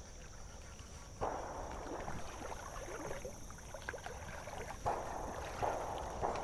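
Creek water sloshing and splashing around someone wading. Sudden surges come about a second in and again near five seconds in.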